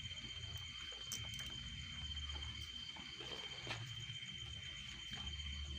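Crickets trilling steadily: one constant high note with a faint pulsing above it. Faint low rumbles and a few soft clicks sound under it.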